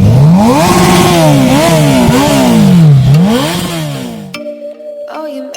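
Motorcycle engine revved hard several times, its pitch climbing and dropping in a few quick sweeps. It cuts off abruptly about four seconds in, where music with bell-like tones takes over.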